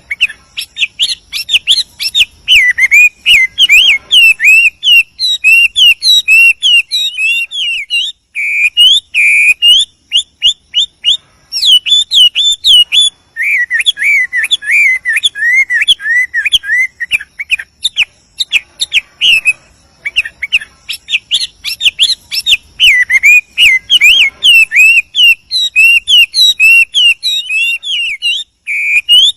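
A Chinese hwamei (wambi) singing a long, continuous song of rapid, varied whistled phrases. Fast runs of notes alternate with repeated wavering trills, with only brief pauses twice.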